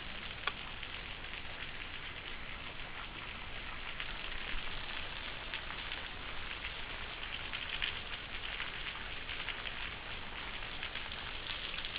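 Small waterfall splashing into a shallow pool: a steady hiss of falling water with faint ticks of drops.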